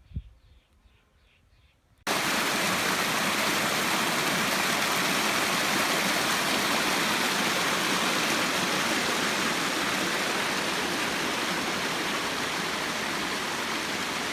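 Steady rushing of a creek waterfall, loud and even. It cuts in abruptly about two seconds in, after a short quiet stretch.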